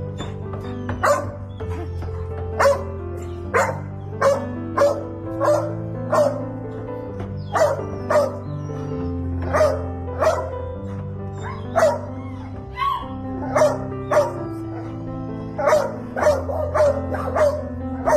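Background music of held, slowly changing chords, with a dog barking in short, sharp barks about once a second, unevenly spaced, louder than the music.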